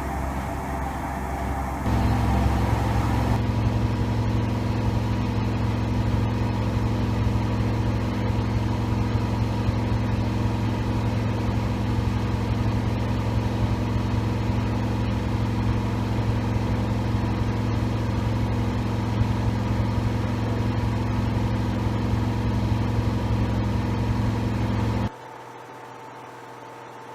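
Siemens iQ700 front-loading washing machine in a fast spin with an unbalanced load, a loud steady mechanical hum. The hum steps up louder about two seconds in and drops off abruptly near the end.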